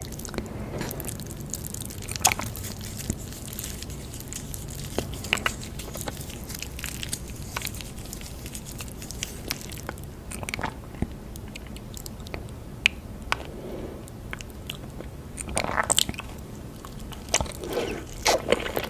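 Close-miked eating: biting and chewing with a scatter of crunches.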